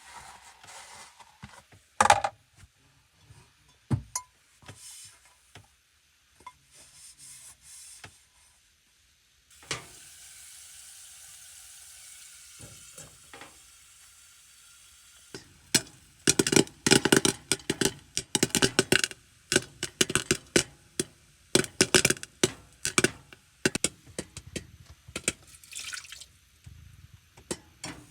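A few scattered knocks, then about five seconds of steady running water, then a long run of quick clattering knocks that goes on to the end.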